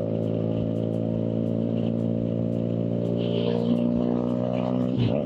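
Motorcycle engine running at a steady speed while riding, with a brief break in pitch near the end.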